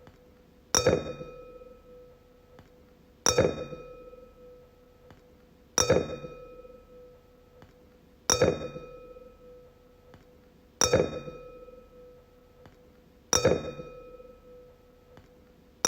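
Wine glass struck about every two and a half seconds, six times. Each tap rings out with one clear tone and fading higher overtones.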